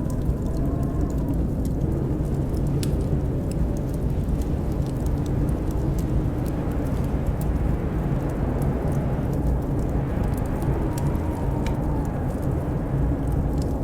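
Blizzard wind howling, a steady low rumble with a whistling howl that wavers up and down in pitch, over the crackle and pop of a wood fire.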